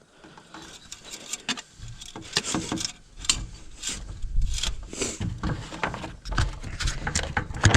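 Irregular clicks, knocks and rubbing of hands handling parts in a truck's engine bay, with a few dull low thuds.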